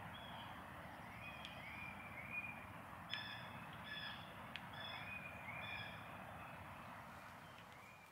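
Faint outdoor ambience with songbirds calling: short upswept chirps throughout and a run of repeated short notes in the middle.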